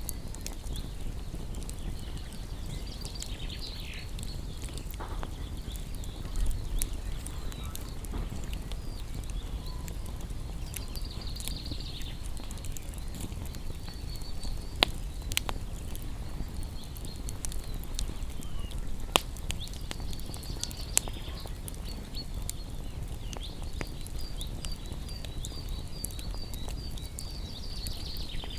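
Wood bonfire crackling with scattered sharp pops, a few of them loud, over a low steady rumble. Small birds chirp and twitter, with a quick run of repeated chirps near the end.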